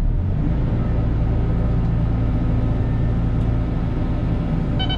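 Cat 313 excavator's diesel engine running steadily under hydraulic load as the boom and bucket dig to grade; the engine note steps up slightly a moment in and then holds.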